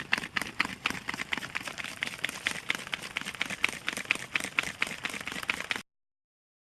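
A wood or charcoal fire crackling under a clay tajine: a dense run of sharp, irregular pops and snaps that cuts off abruptly near the end.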